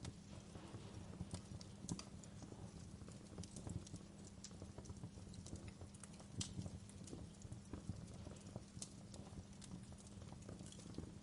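Wood fire crackling in a fireplace: irregular sharp pops and snaps, some louder than others, over a low steady rumble.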